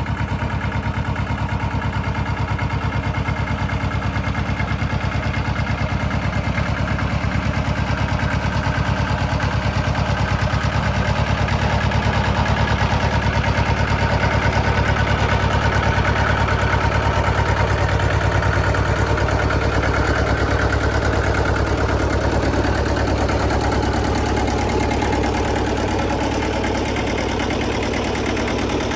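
A heavy vehicle engine running steadily with an even firing pulse, growing a little louder through the middle and easing back slightly near the end.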